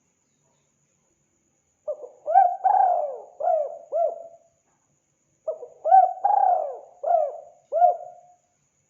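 Spotted dove (tekukur) calling in full voice: two cooing phrases of five or six hooting notes each. The first starts about two seconds in and the second about five and a half seconds in.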